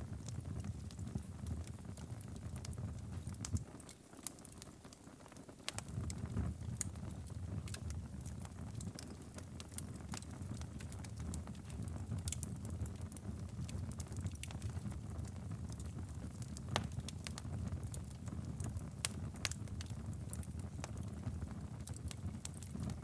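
Wood fire crackling and popping: irregular sharp snaps over a steady low rumble. The rumble drops out for a couple of seconds about four seconds in, then returns.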